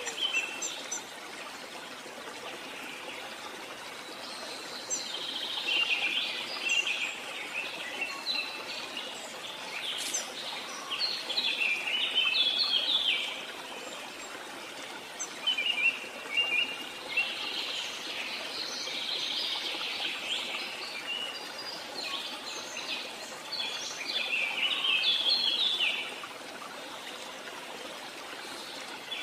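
Birds chirping and singing in repeated bursts of quick high notes, over a steady background hiss.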